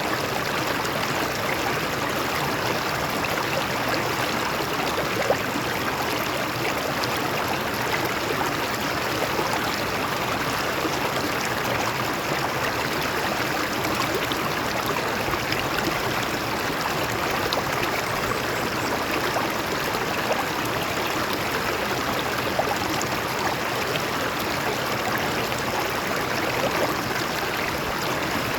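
A stream of water flowing over rocks, with a steady rushing and splashing that never lets up.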